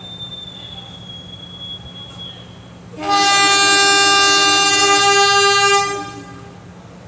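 Diesel train locomotive's horn sounding one long blast of about three seconds, starting about three seconds in. Before it a thin, high, steady whine is heard.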